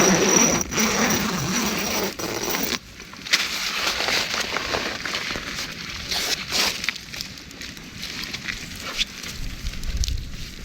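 A steady rushing noise that cuts off abruptly about three seconds in, followed by a campfire crackling with scattered sharp pops.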